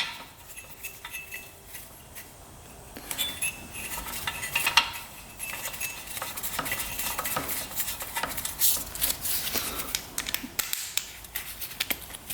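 Metal hand tools and parts clinking and rattling on the engine of a 1975 Yamaha RD200 two-stroke motorcycle as the compression tester is moved to the right-hand cylinder. The clicks and clatters start about three seconds in and continue irregularly.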